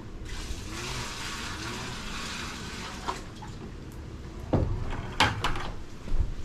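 Water poured from a bucket into the wash tub of a semi-automatic twin-tub washing machine, splashing steadily for about three seconds and then stopping, followed by a few sharp knocks.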